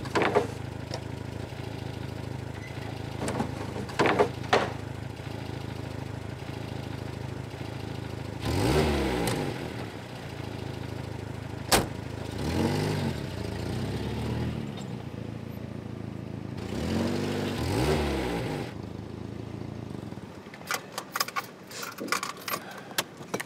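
Car engine running at idle and revved up and back down three times, then switched off about 20 seconds in, followed by a quick series of clicks like keys and door handling.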